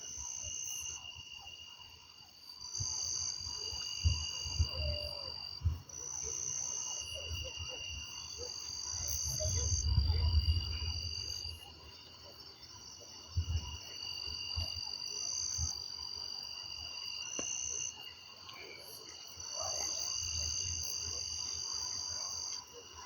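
Chorus of frogs and insects calling in steady high trills, in overlapping bouts. Low rumbles come and go beneath it, the loudest about ten seconds in.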